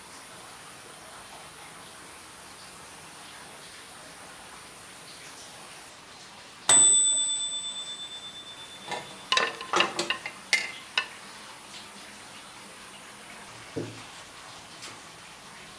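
A single bell-like ding rings out and fades over about two seconds, followed by a quick run of clattering knocks and a soft thump.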